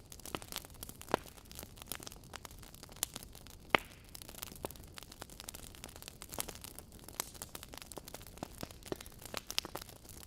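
Wood fire burning in a fireplace: logs crackling with frequent irregular small snaps over a low hiss, and two louder pops about one and about three and a half seconds in.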